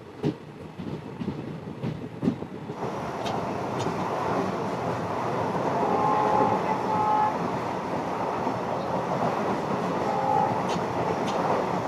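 Passenger train running along the track. Wheels knock over rail joints at first; from about three seconds in a louder steady rumble takes over, with a few short high tones near the middle.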